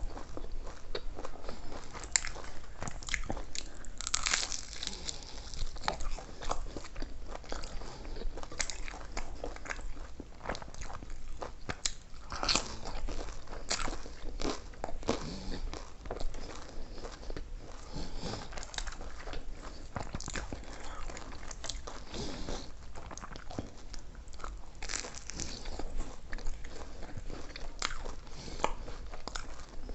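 Close-miked mukbang eating: a person biting and chewing food, with many sharp crunches and mouth clicks.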